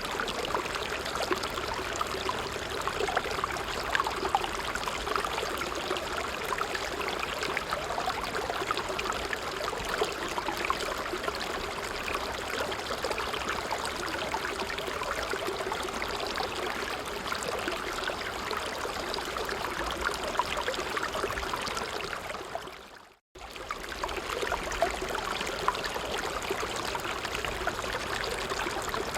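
A brook running steadily over stones with an even rushing and trickling. About three quarters of the way through, it fades to silence for a moment and then comes straight back.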